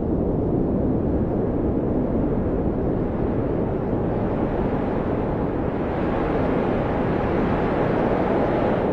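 Blizzard wind rushing steadily with a deep low rumble, a gust building and growing brighter about six seconds in.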